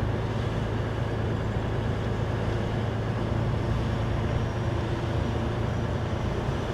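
Steady drone of a truck tractor's diesel engine and road noise heard from inside the cab while driving, with a constant low hum and no changes.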